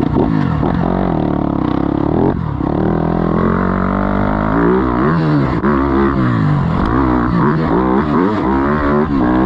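Single-cylinder four-stroke off-road engine under hard throttle, revving up and dropping back again and again as it is ridden and shifted.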